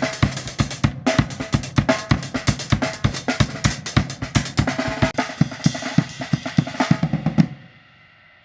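Drum kit with Meinl cymbals played in a busy groove: kick drum, snare with rimshots, hi-hats and cymbals in quick strokes. A last strong hit about seven and a half seconds in ends it, and the sound rings out.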